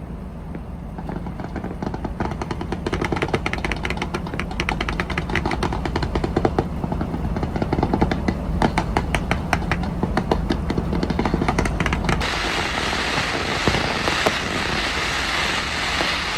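Fireworks crackling in dense, rapid strings of pops over a low rumble. About twelve seconds in the crackle gives way suddenly to a steady hiss.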